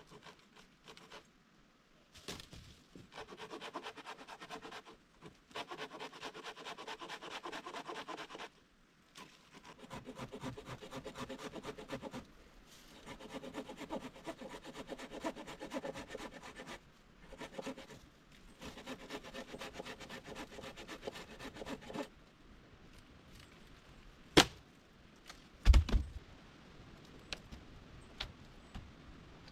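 Hand saw cutting through wood in several bouts of quick back-and-forth strokes with short pauses between them. Near the end come two sharp wooden knocks, the second with a dull thud.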